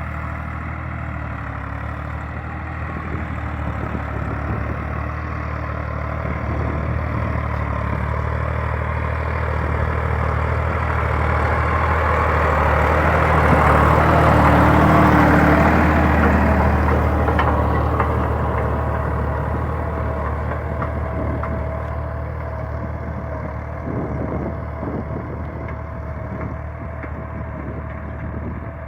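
Massey Ferguson 260 Turbo tractor's three-cylinder diesel engine running steadily while pulling an 11-tine cultivator. It grows louder to a peak about halfway through and then fades as the tractor passes by.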